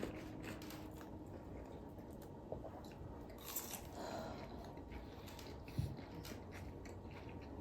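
Faint chewing and crunching of a fried, breaded lotus-root and pork cutlet, with a few small clicks scattered through.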